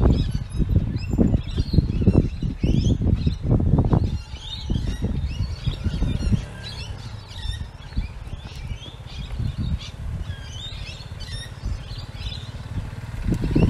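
Birds chirping and calling throughout, over an irregular low rumble that is strong for the first half, fades, and comes back near the end.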